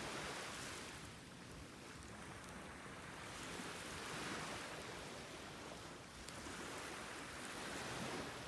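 Sea surf washing on the shore, a steady rush of noise that swells and eases every few seconds.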